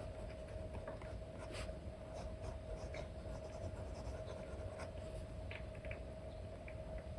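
Apple Pencil 2 with an Elecom nib scratching and tapping across a paper-textured screen film on an iPad in short, irregular strokes, over a faint steady hum.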